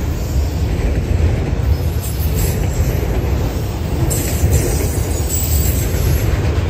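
Freight train of autorack cars rolling past close by: a steady, heavy rumble of steel wheels on the rails.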